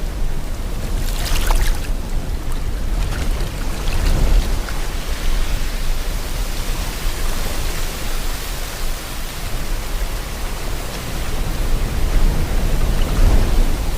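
Sea water and wind: a steady rushing noise with a deep rumble, swelling about a second and a half in, again around four seconds, and near the end.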